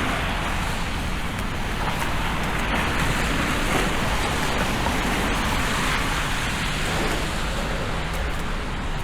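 Steady rush of city street traffic, cars passing on a wet, slushy road, heard as an even noise with no distinct events.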